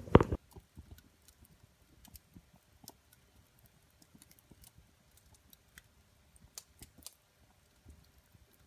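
Wood fire crackling in a fireplace: sparse, irregular small pops and snaps, with one brief louder knock right at the start.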